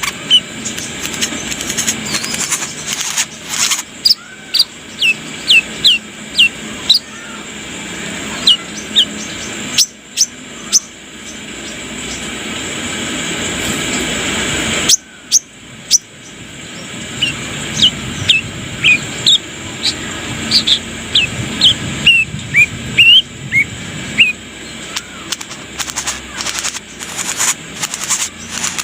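Brown-throated sunbird (kolibri kelapa) singing: quick runs of thin, high, sharp chirps, one run a few seconds in and a longer one past the middle, with sharp clicks scattered throughout over a steady hiss.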